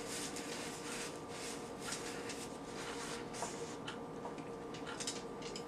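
Faint chewing: scattered small wet clicks and smacks over a low hiss, with a faint steady hum underneath.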